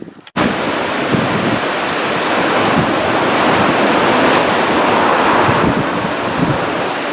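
Yellowstone River whitewater rushing steadily around a raft, setting in abruptly just after the start, with some wind noise on the microphone.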